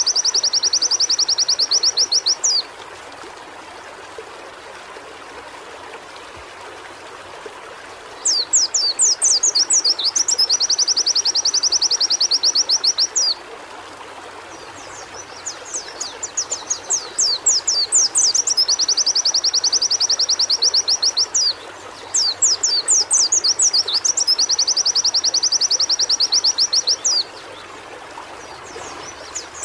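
White-eye (pleci) singing in repeated bouts: each bout opens with a run of quick sweeping notes and runs into a fast, even trill lasting several seconds, then breaks off for a pause before the next. Four bouts, with a fifth starting near the end, over a faint steady background hiss.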